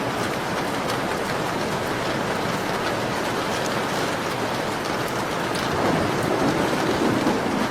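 Steady rain falling, with small crackles of a wood fire ticking through it. A low rumble swells near the end.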